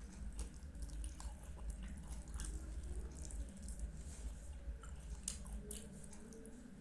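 A person chewing soft, syrup-soaked Indian sweets, with wet, squishing mouth sounds and scattered small clicks, over a steady low hum.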